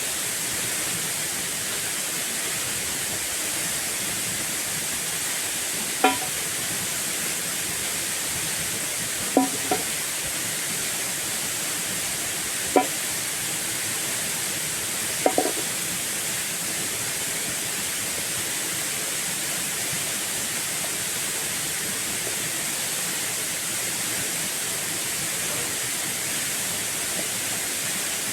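Steady rush of falling water. A handful of short sharp knocks sound between about six and fifteen seconds in.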